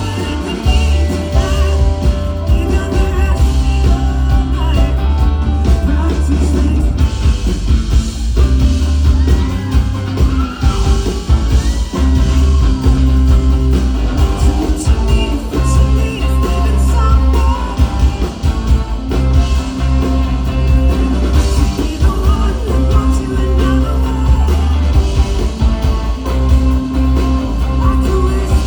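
A rock band playing live with a singer, with a heavy, steady bass line under the vocals.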